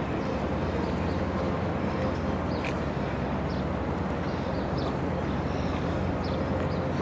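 Steady low outdoor rumble, with faint short high chirps scattered through it.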